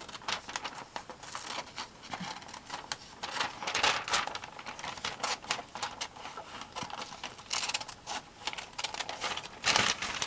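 Scissors snipping through glossy magazine paper in quick irregular cuts, with the paper rustling as it is handled.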